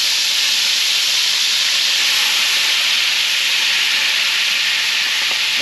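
Sherry sizzling in a hot skillet as it deglazes the pan, a loud, steady hiss.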